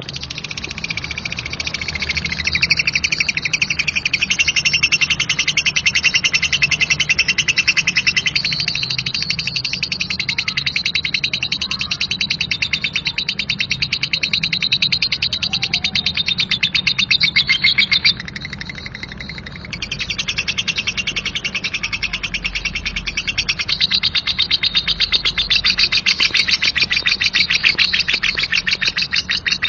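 Female lovebird ngekek: a long, coarse chattering trill of very rapid repeated high notes. It breaks off briefly a little past halfway, then starts again.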